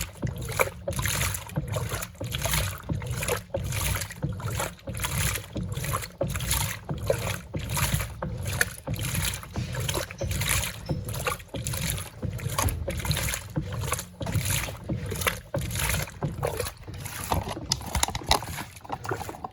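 Electrolux Turbo Compacta 7 kg LTC07 top-loading washing machine agitating a load in its wash cycle: water sloshing in even, rhythmic surges, about two to three a second, over a low steady hum.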